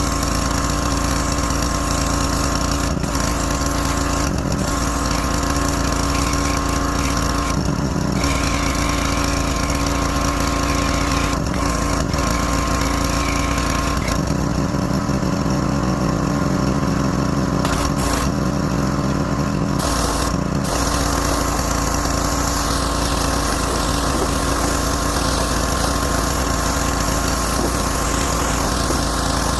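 Small gasoline engine of a pressure washer running steadily. Its note changes briefly several times, longest for a few seconds mid-way.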